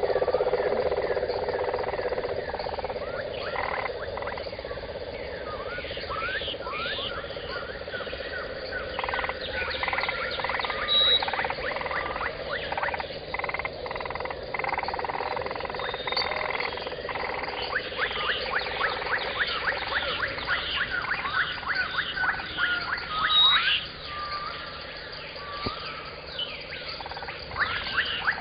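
Outdoor birdsong: many short chirps and quick whistled phrases from several birds, with a fast run of repeated notes in the second half. A steady low hum under them fades out in the first few seconds.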